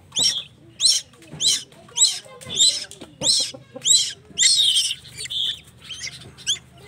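Tuwu bird chick giving shrill calls over and over, about one every half to two-thirds of a second, with a longer call about halfway through; begging calls of a young bird being hand-fed.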